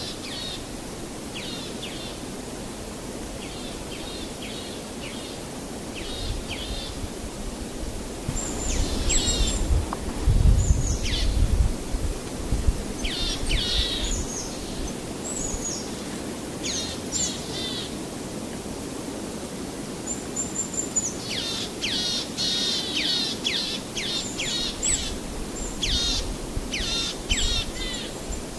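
Small birds chirping in quick, repeated short calls over a steady background hiss, busiest in the second half, with a low rumble about ten seconds in.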